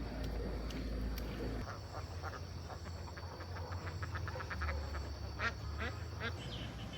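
Ducks quacking in a rapid run of short calls, starting about two seconds in and fading near the end.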